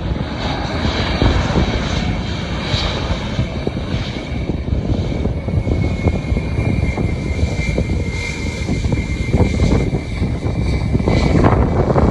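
Jet airliner engines running as an arriving plane passes, a continuous heavy rumble with a steady high whine through the second half.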